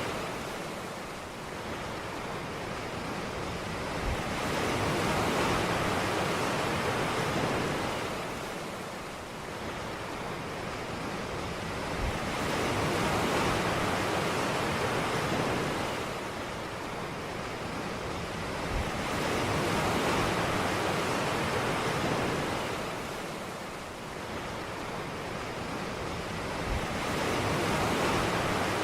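Sea surf washing onto a beach: the rush of the waves swells and fades about every seven to eight seconds. A short, soft low thump comes as each swell begins.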